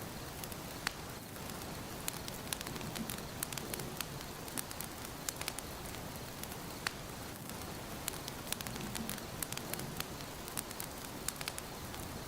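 Wood fire burning in a fireplace, crackling: a steady hiss of flame with many sharp, irregular pops and snaps.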